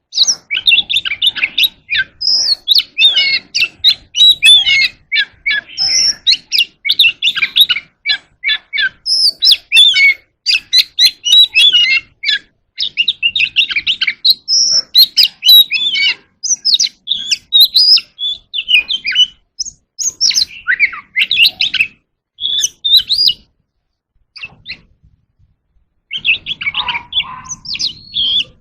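Oriental magpie-robin singing a long, varied song of rapid whistles and chirps, breaking off for about two seconds near the end before starting again.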